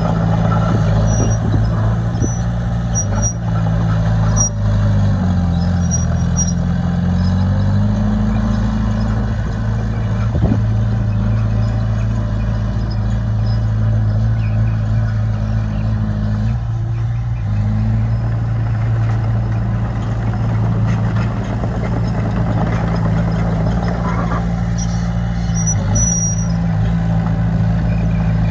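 Heavy construction machine's diesel engine running steadily under work, its pitch sagging and recovering a few times, about five seconds in, around seventeen seconds and again near the end.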